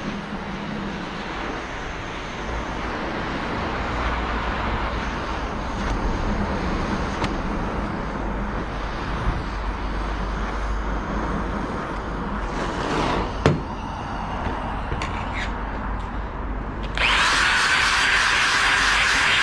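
Steady machine noise with a single knock partway through; a few seconds before the end a power tool starts suddenly and runs loudly with a steady whine.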